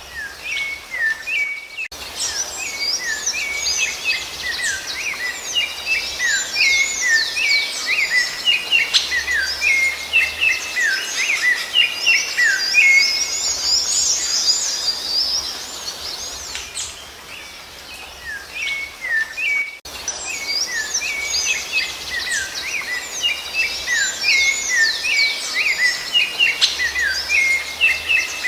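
Rufous-bellied thrush (sabiá-laranjeira) song: fast, continuous runs of short chirps and curved whistled notes. The song breaks off abruptly twice, about two seconds in and again about two-thirds of the way through, where the recording is cut.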